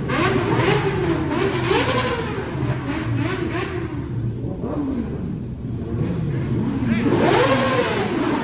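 Motorcycle engines being revved over and over, the pitch rising and falling with each throttle blip, the loudest rev near the end.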